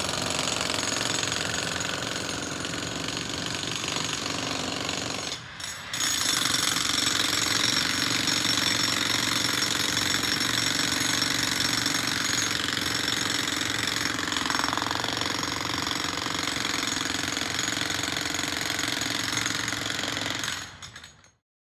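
Jackhammer hammering steadily as it breaks through. It pauses briefly about five seconds in, then runs on and stops suddenly near the end.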